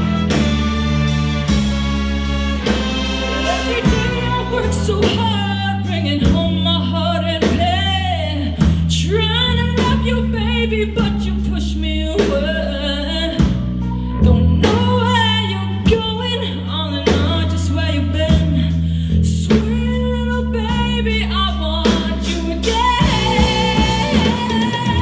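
Rock music: an instrumental-style passage with electric guitar, bass and drums, and wordless wavering vocal or guitar lines over a bass part that moves note by note.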